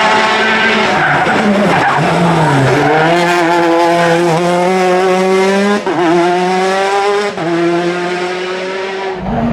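Rally car engine under hard load on a special stage: the pitch drops and climbs again as it pulls through the gears, held high with brief breaks at the gear shifts about six and seven and a half seconds in. The sound cuts off suddenly near the end.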